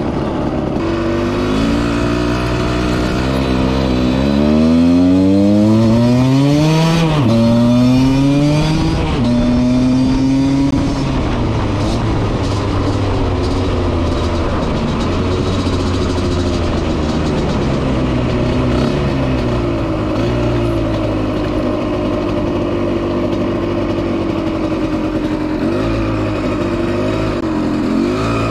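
Husqvarna SM 125 two-stroke motorcycle engine running under way. It revs up steeply twice in the first ten seconds or so, with a sharp drop between, then runs at lower, fairly even revs with small rises and falls.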